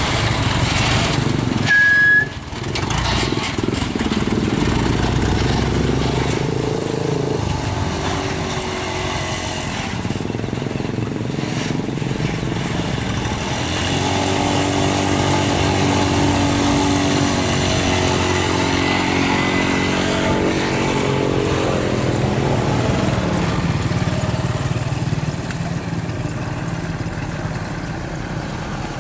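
Road traffic: vehicle engines, with trucks and motorcycles passing. There is a short high beep about two seconds in, and about halfway through an engine drone swells and fades as a vehicle goes by.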